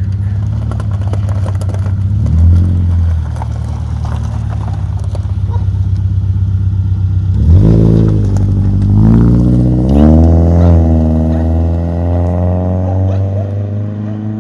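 Naturally aspirated flat-four of a 2006 Subaru Impreza 2.5 running through a Flowmaster HP-2 muffler and oversized tips: idling, blipped briefly about two seconds in, then revved up about halfway through, held high with a few rises, and let fall slowly back toward idle near the end.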